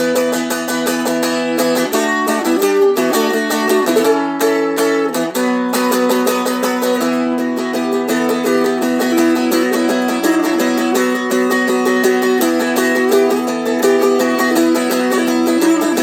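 Seagull Merlin M4 fretted dulcimer being flatpicked in fast repeated notes over low drone strings that ring steadily. The chords change a couple of times in the first few seconds.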